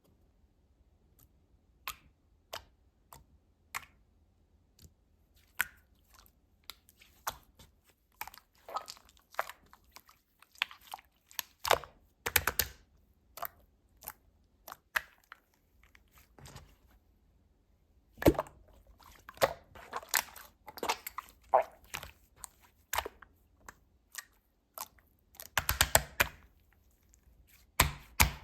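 Slime being squeezed and pressed by hand, giving irregular wet clicks, squishes and small pops, sometimes single and sometimes in quick clusters. The busiest, loudest stretches come about 18 seconds in and again near the end.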